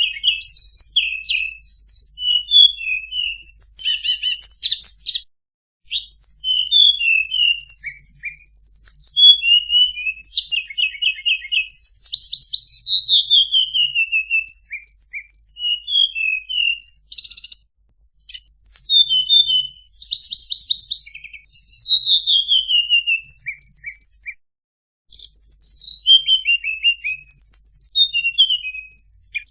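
Tledekan (a small Indonesian flycatcher) singing: fast, high, chattering phrases of rapid trills and downward-sliding notes, with a few short breaks between runs.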